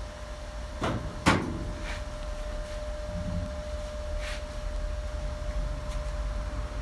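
Two sharp knocks a little under a second in, the second louder and ringing briefly, then a few fainter taps, over a steady hum.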